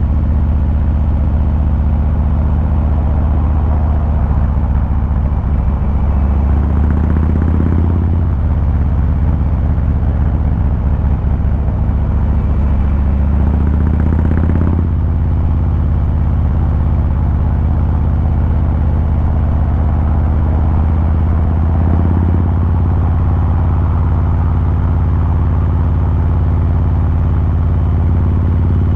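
2023 Harley-Davidson Fat Boy 114's Milwaukee-Eight 114 V-twin running through its exhaust under way. The engine note builds and then drops sharply twice, about 8 and 15 seconds in, like gentle acceleration with gear changes, then settles into a steady cruise.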